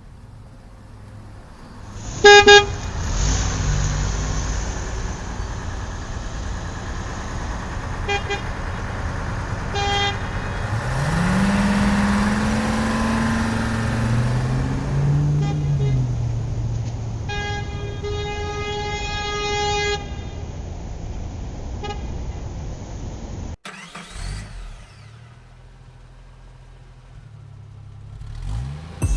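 Semi-truck sounds: a steady low engine rumble with a truck horn honking, one short blast about two seconds in, a few short toots, then a long blast past the middle. Midway, the engine tone rises and falls with a hiss, and near the end the truck sounds cut off abruptly.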